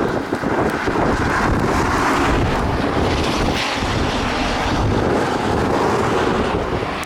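Strong wind buffeting the microphone: a loud, steady rushing noise with an uneven low rumble.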